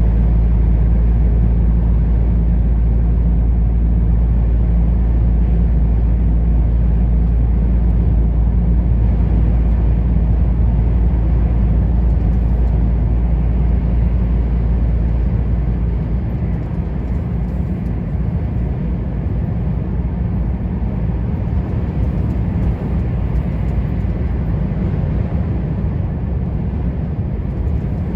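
Truck on the move: a steady deep engine hum with road rumble, the deepest part of it easing slightly about halfway through.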